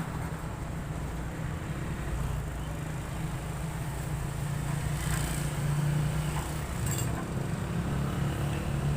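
An engine running steadily with a low, even hum, and a couple of faint clicks about five and seven seconds in.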